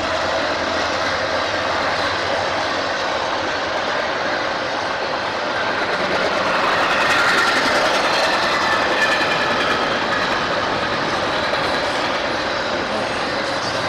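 A train passing over the rails, the steady noise of its cars rolling by, a little louder around the middle.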